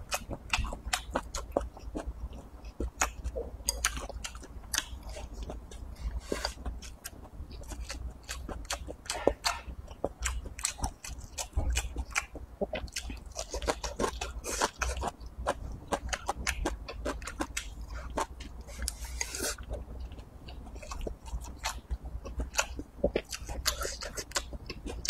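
A person eating with chopsticks, chewing and biting rice, soybeans and leafy green vegetable stalks, with many irregular wet mouth clicks and smacks.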